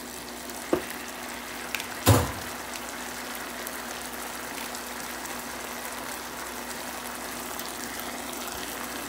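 An oily sofrito of peppers, onion and lemon juice sizzling and bubbling in a nonstick frying pan, a steady fine crackle. A single knock about two seconds in.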